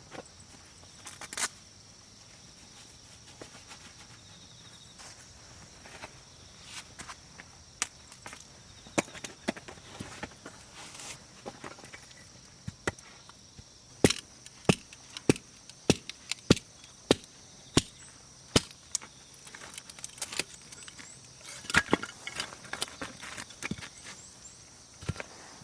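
Wood being chopped: sharp, separate knocks that come in a quick run of about two a second through the middle stretch, over a faint steady high hum.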